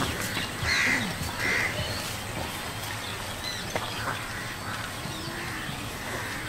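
Two short, harsh bird calls about a second in, over a steady outdoor background with a few faint bird chirps later.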